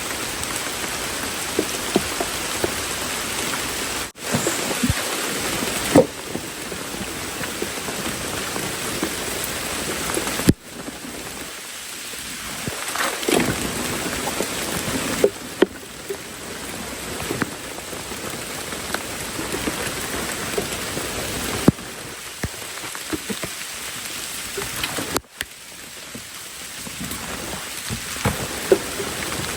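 Heavy rain falling steadily, with scattered individual drops ticking close by. The sound cuts out for an instant a few times.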